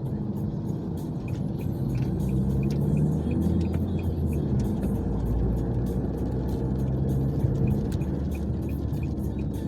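Steady road and engine rumble heard from inside a moving car in heavy rain, with many small taps of rain striking the body and glass.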